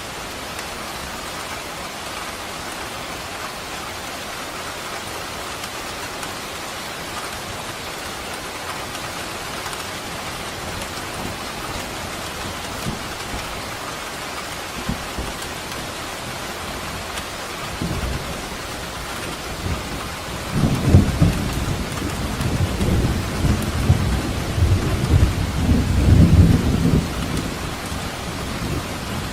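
Steady rain falling, with a long roll of thunder rumbling in about two-thirds of the way through and lasting several seconds before fading back to the rain.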